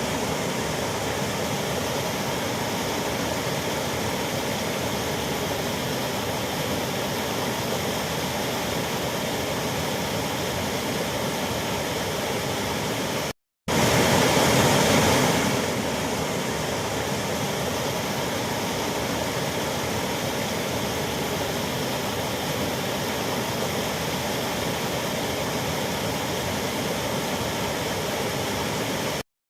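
Waterfall: a steady, even rush of falling water. It cuts out for an instant about halfway through and again near the end, and is a little louder for a couple of seconds after the first break.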